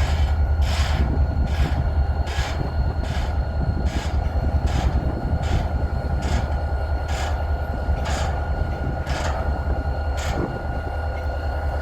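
A diesel locomotive's bell rings steadily, striking about once every 0.8 seconds, over the low rumble of the engine as the train moves cars.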